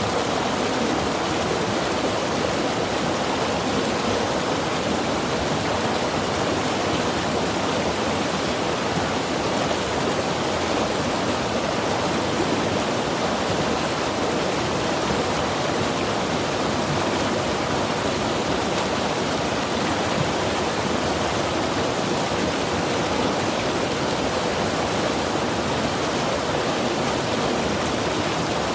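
Mountain river rushing steadily over rocks, an even wash of water noise with no breaks.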